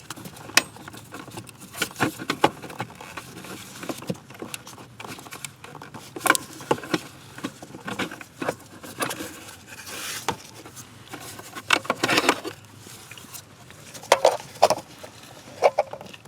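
Irregular clicks, taps and short scrapes of hand work on car parts, as hand tools and trim pieces are handled during a blower motor replacement.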